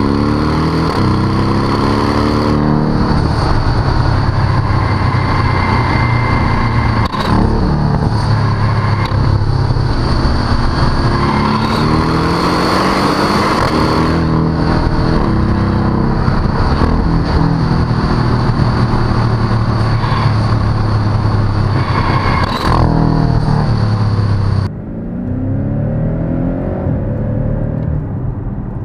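Porsche 718 Cayman GTS's 2.5-litre turbocharged flat-four with the sports exhaust, heard at the tailpipes, accelerating hard through the gears: the revs rise again and again, with short sharp cracks between the runs. Near the end the same rising revs are heard more quietly and muffled, from inside the cabin.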